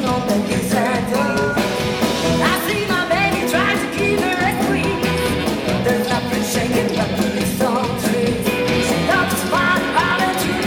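Rock and roll band playing live, an instrumental stretch with a steady beat and sliding melodic lines.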